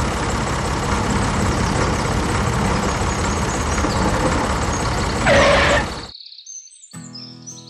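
A steady engine running, with a short louder surge just before it cuts off abruptly about six seconds in. Birds chirp after the cut, and guitar music starts near the end.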